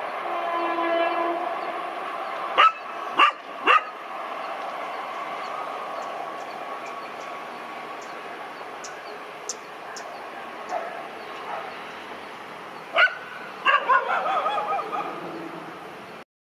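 A WAG-5 electric locomotive-hauled passenger train rolling away into the distance, its steady rumble slowly fading. A dog barks three times about two and a half seconds in, and several more times near the end.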